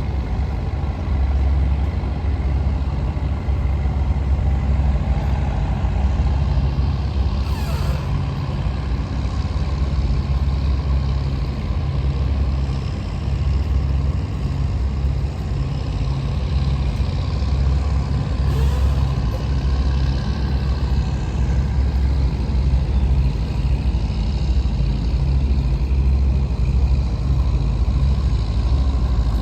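Fishing boat's marine diesel engine running steadily, a deep, even low rumble.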